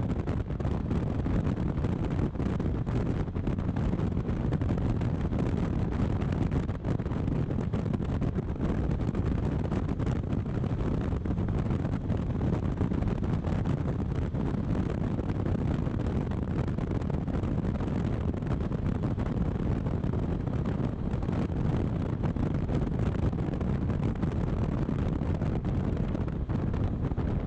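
Steady wind rush buffeting the microphone on a motorcycle riding at highway speed, with the bike's running and road noise under it.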